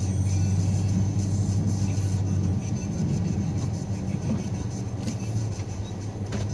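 Snowplow vehicle's engine running steadily at an even pitch, easing off slightly about two and a half seconds in, with a brief click near the end.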